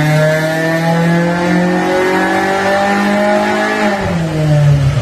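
Tuned Toyota 4A-G four-cylinder engine under load, its pitch climbing slowly as the revs rise. About four seconds in, the revs fall sharply.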